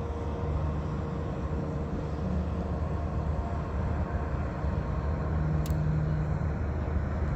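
Steady, unbroken rumble of a UPS Boeing 747 freighter's jet engines during its landing, heard outdoors at a distance.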